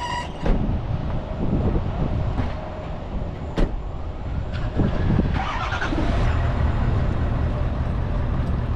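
Ford F-350 pickup truck's engine running with a steady low rumble, with a few thumps and one sharp knock about three and a half seconds in.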